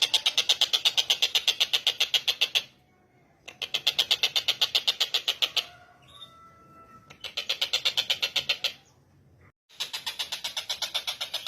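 Tengkek buto, a kingfisher, giving its rapid chattering call: runs of sharp, evenly repeated notes, about a dozen a second, in four bouts with short pauses between them. Faint thin whistles sound in the pause near the middle.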